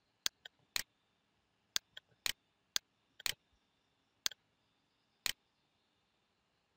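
Computer mouse clicking: about ten sharp, irregularly spaced clicks, some in quick pairs, stopping about five seconds in.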